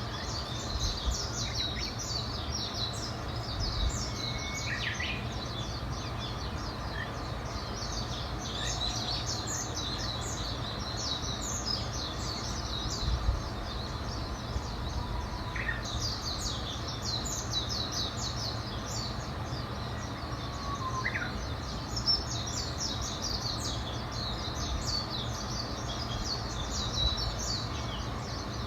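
Several small birds singing and chirping in dense, rapid, high-pitched trills, with a few separate lower whistled notes now and then, over a steady low rumble.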